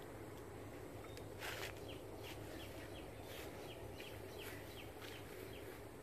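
A bird calling with a run of short, falling high chirps, about three a second, over a faint steady outdoor background. A brief rustle about a second and a half in.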